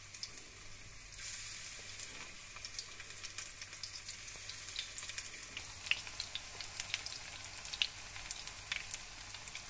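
Battered zucchini flowers frying in hot oil in a pan: a steady sizzle with many small crackling pops, growing a little livelier about a second in as more blossoms go into the oil.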